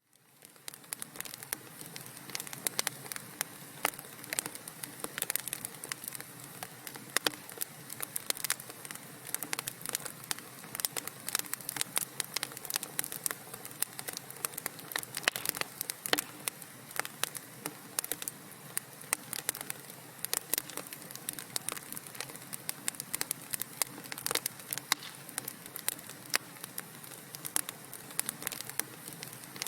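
Wood fire crackling in a fireplace: dense, irregular pops and snaps over a steady hiss, fading in over the first second.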